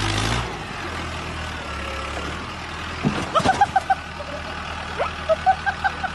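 Tractor engine running steadily with a low hum. Two quick runs of short pitched blips come over it, about three seconds in and again about five seconds in.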